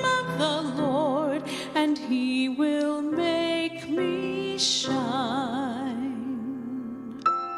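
A woman singing a slow, tender song with vibrato on long held notes, over piano accompaniment.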